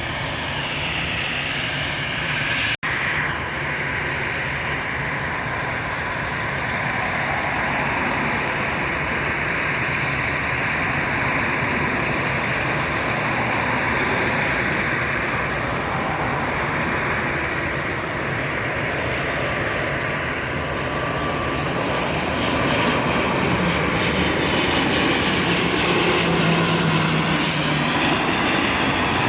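Jet airliner engines running steadily, growing louder a little past twenty seconds in, with a high whine that wavers in pitch near the end.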